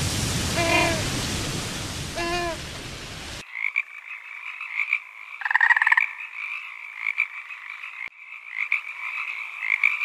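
Surf breaking on a beach with three short calls, then a sudden change to a chorus of water frogs croaking, with one loud, rattling croak about halfway through.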